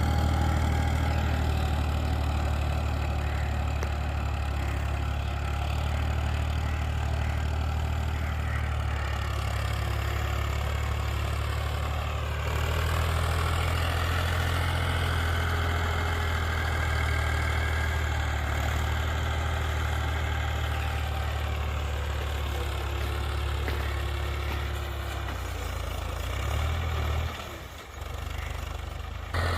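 Ford 3610 tractor engine running steadily, pulling a cultivator through hard ground. Near the end the sound dips briefly, then comes back.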